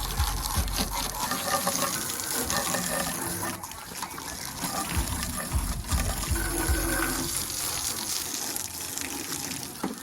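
Water spraying and gushing steadily, as when a truck is rinsed during a wash.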